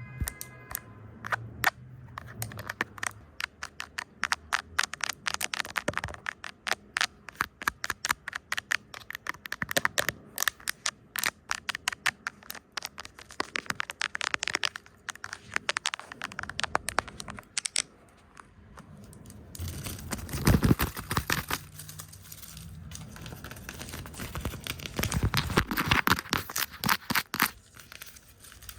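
Fast, irregular tapping on a camera lens, several sharp taps a second. About two-thirds of the way through, it gives way to denser, scratchy brushing and rubbing.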